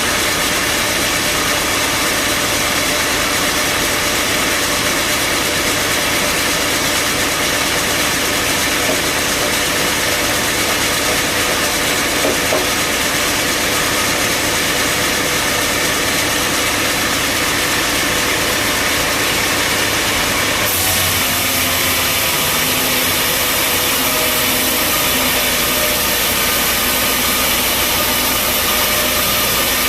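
Band sawmill running with a loud, steady mechanical noise. About two-thirds of the way through, the sound changes abruptly, with more high hiss on top and a different low hum.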